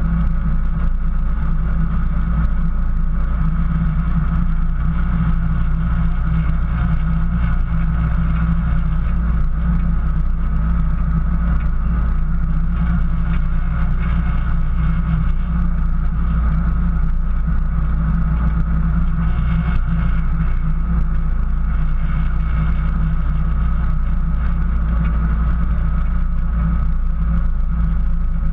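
Jeep's engine and drivetrain running steadily as it drives along a snowy trail: a constant low rumble with a faint steady high whine over it.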